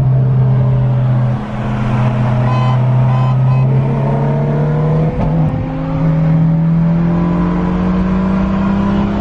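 Car engine running with a steady drone, its pitch climbing slowly through the second half as it revs up. It dips briefly about a second and a half in and again about five seconds in.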